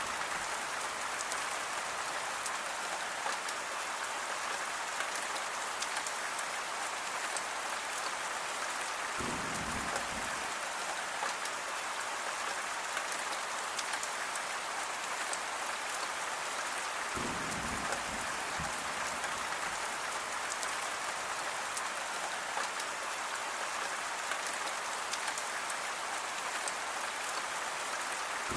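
Steady rain falling, an even hiss of many drops. Twice, about ten and eighteen seconds in, a brief low rumble sits under it.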